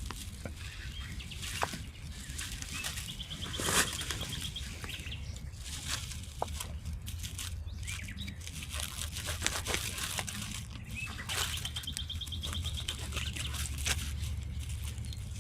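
A small bird's rapid, rattling trill, heard twice, over scattered snaps and rustles of leaf litter and twigs underfoot, with a steady low rumble beneath.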